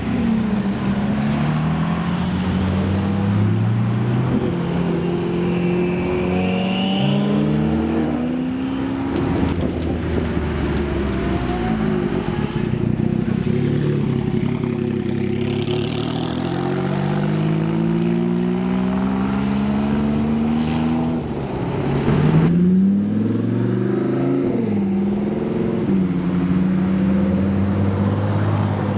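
Supercar engines running and revving as cars drive by, their pitch climbing and dropping again and again through gear changes. One sharp crack comes about three-quarters of the way through, followed by a quick rising rev.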